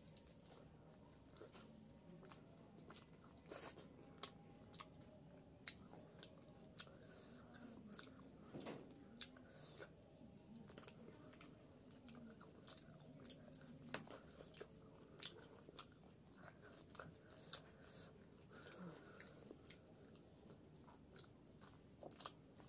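A person chewing and biting chicken curry with rice: faint, close-miked mouth sounds made of many short wet clicks and smacks scattered throughout.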